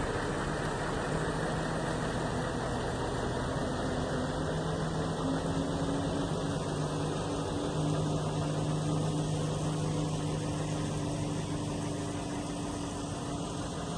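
An engine running steadily at low speed, its hum stepping slightly in pitch now and then.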